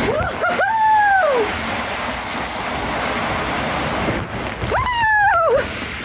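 Steady rush of splashing water at a water park, with two long yells that fall in pitch, one about a second in and one near the end.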